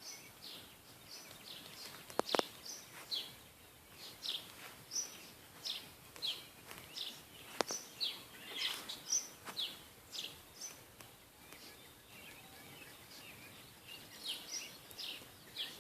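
Small wild birds chirping: a steady string of short, high, falling chirps every half second or so, with two sharp clicks about two and seven and a half seconds in.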